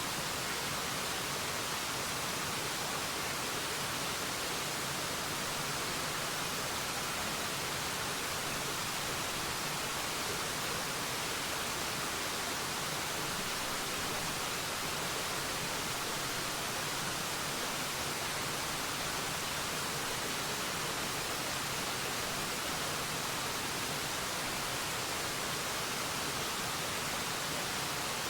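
Waterfall: a steady, unbroken rush of falling water, an even hiss weighted toward the high end with little deep rumble.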